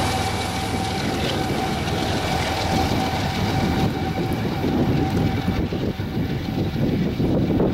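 A Union Pacific diesel freight train of autorack cars passing close by: rumble and wheel clatter with a steady tone that slowly falls in pitch. About four seconds in, the sound changes to a duller, more distant rumble.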